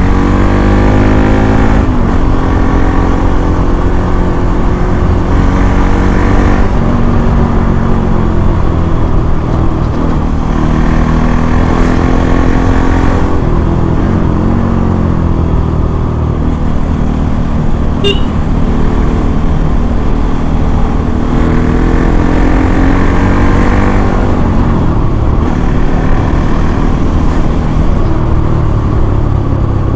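Bajaj Pulsar NS200's single-cylinder engine through its stock exhaust, accelerating hard through the gears. The engine pitch climbs, drops at each gear change, and climbs again, several times over.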